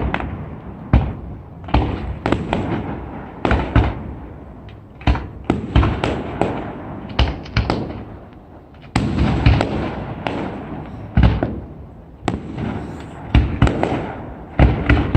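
Aerial fireworks bursting: a string of sharp bangs at irregular intervals, with crackle and the echo of the shells between them.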